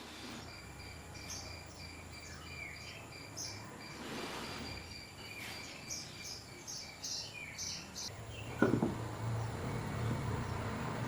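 Outdoor ambience: short, high bird chirps over a faint steady insect-like drone. From about eight seconds in, a low rumble and a couple of sharp knocks, the loudest of them just after eight seconds.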